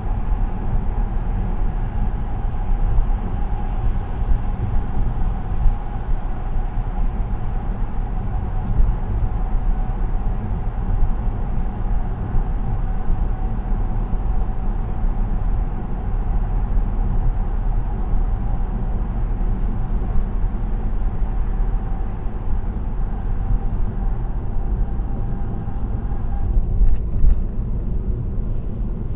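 Car driving at speed on an expressway: steady road and tyre noise with a low rumble. A faint steady whine runs along with it and stops a few seconds before the end.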